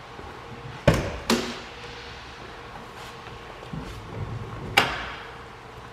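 Three sharp clunks from handling the car before its cold start: one about a second in, a second just after it, and a third near the end. A faint steady hum lies between them.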